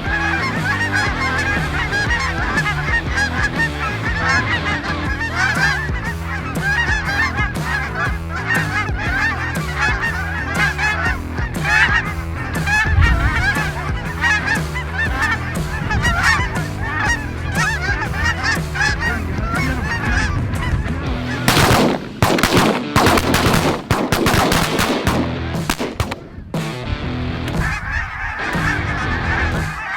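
A large flock of geese honking continuously, many birds calling over one another. Several loud sudden noises break in between about 22 and 26 seconds.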